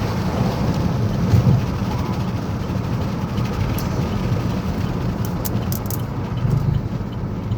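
Steady low road and engine rumble inside a moving car's cabin while driving, with a few short sharp clicks.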